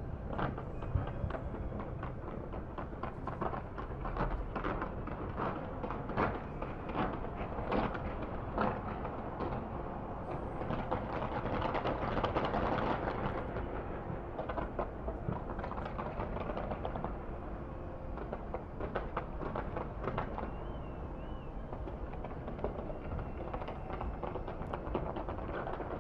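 Outdoor city ambience: a steady wash of distant crowd noise from the packed streets, swelling briefly about halfway through, with scattered small clicks.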